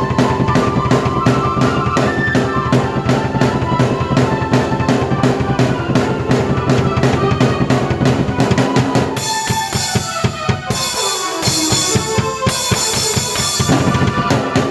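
A drum kit and keyboard played together in an up-tempo original piece: steady kick and snare strikes under keyboard lines. About nine seconds in, the low drums drop back under bright cymbals and a falling keyboard line, then the full groove returns.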